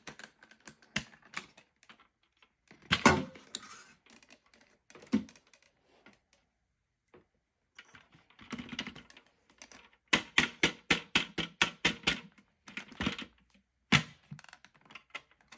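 Plastic clicks and knocks as a Dyson vacuum's dust bin is opened and emptied, with a louder clatter about three seconds in. Later comes a quick run of even taps, roughly eight a second, knocking the dirt out of the bin.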